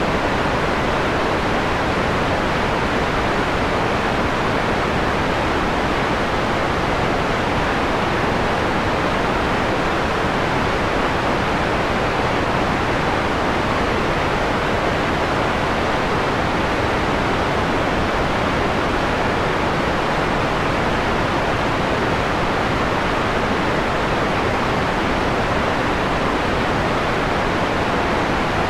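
Steady white noise, filtered to a mellow tone: a constant, even hiss with the highs rolled off above the middle range.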